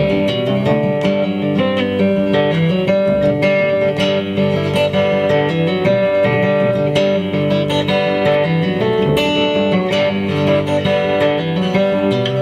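Live acoustic band playing an instrumental passage: acoustic guitar strummed and picked over long held notes.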